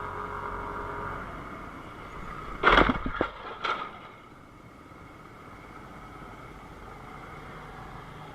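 Car collision recorded by a dashcam: steady driving noise, then a loud impact a little under three seconds in, followed by two smaller knocks a moment later, after which the vehicle noise carries on more quietly.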